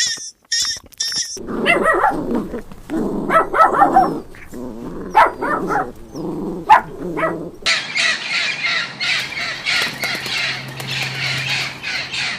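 A dog barking in an irregular run of barks, after a few brief high chirps at the start. About eight seconds in, the sound changes abruptly to a dense, steady, higher-pitched noise.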